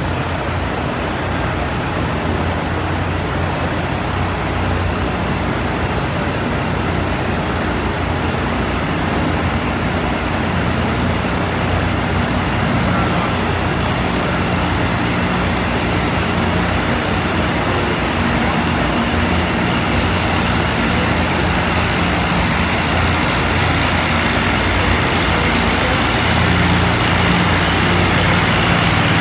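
Antique farm tractor's engine running hard under load while pulling the sled down the track, a steady low drone that grows slowly louder.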